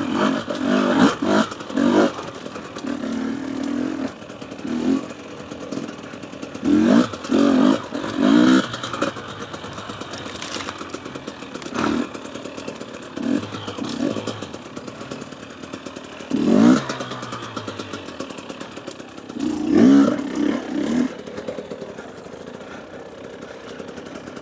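Husqvarna TE250 two-stroke enduro bike ridden slowly, the engine blipped in short bursts of revs several times between stretches of lower running.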